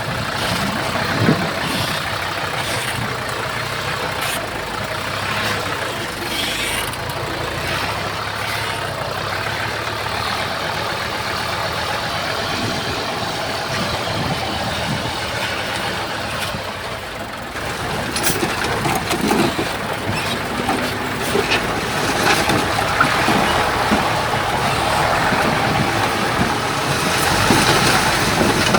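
Heavy earthmoving machinery's diesel engine running steadily, with scattered knocks and clanks; it gets louder a little past halfway.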